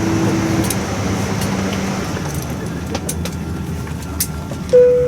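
Airliner cabin at the gate: a steady hum of air and systems, with low humming tones dropping away within the first two seconds, and scattered clicks and rattles of passengers handling belts and belongings. Near the end a single cabin chime sounds and fades.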